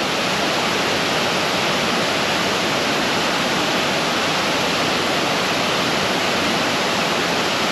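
Water pouring over a small creek waterfall, a steady, even rush of loud noise with no breaks.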